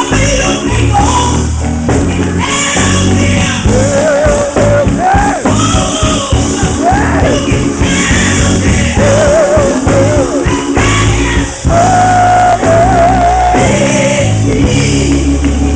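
Gospel singing: a lead voice singing a melody with vibrato over a loud band with bass and drums.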